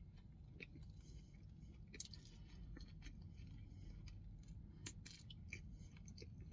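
Faint chewing of a mouthful of burger with crispy onion rings: scattered soft crunches and clicks over a low steady rumble.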